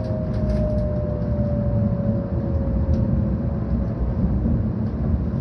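Cabin noise inside a 700 series Shinkansen running at speed: a steady low rumble of wheels and rails, with a faint two-tone whine slowly falling in pitch.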